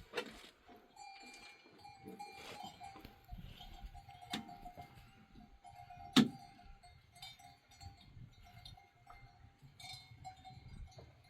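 Livestock bells ringing on and off, with two sharp knocks about four and six seconds in, the second the louder.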